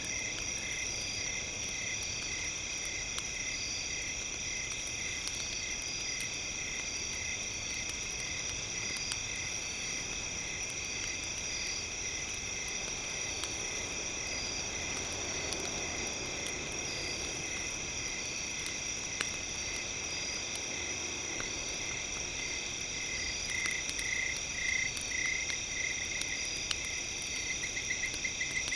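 Steady night chorus of chirping insects, with pulsing calls that grow busier near the end, over faint scattered crackles of a campfire.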